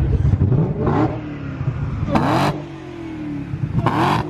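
A car engine revving, its pitch falling and rising again, with four short, sharp bursts of noise over it.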